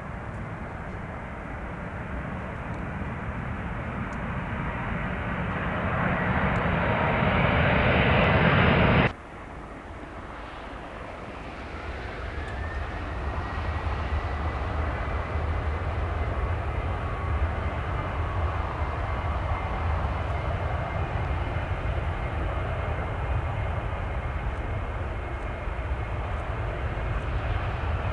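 Jet airliner engines: a roar that grows steadily louder, with a faint rising whine, cuts off abruptly about nine seconds in. A second steady jet roar with a thin whine follows for the rest of the time.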